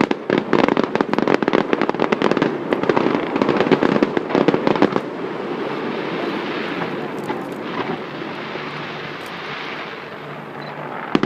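Fireworks display: rapid crackling bursts come thick for about the first five seconds, then thin into a steadier rushing hiss with only scattered cracks.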